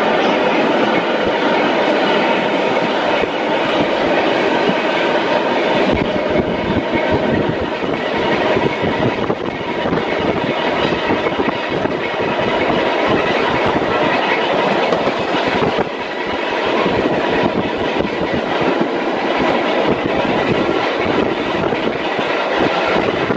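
Century-old BU elevated subway car running on the track, heard from on board: a steady loud rumble of wheels on rail with clickety-clack over the joints and a faint steady whine. The low rumble grows heavier for several seconds in the middle.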